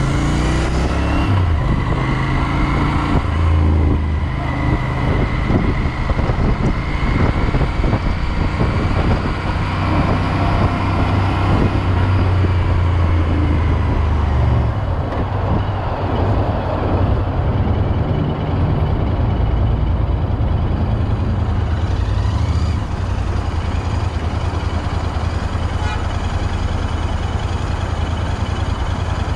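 Royal Enfield Interceptor 650's parallel-twin engine running under the rider, its note stepping up and down through gear changes, over steady wind and road noise. It eases off and settles near the end as the bike comes to a stop.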